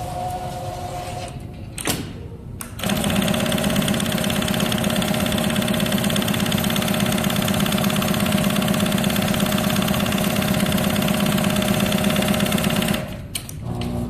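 Sewing machine for heated eye masks stitching at a steady, rapid rate for about ten seconds, starting about three seconds in after a click and stopping shortly before the end.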